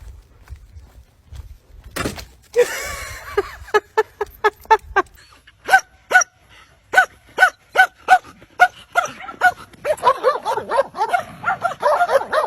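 A small dog yipping: a long run of short, high-pitched yelps, about two or three a second, after a single knock about two seconds in.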